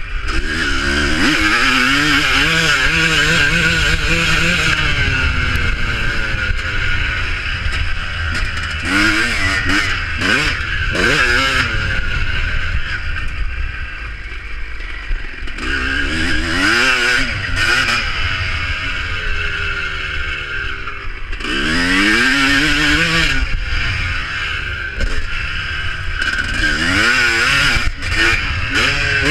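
Motocross motorcycle engines revving hard and easing off as the bikes ride the track, their pitch sweeping up and down again and again, several bikes overlapping at times.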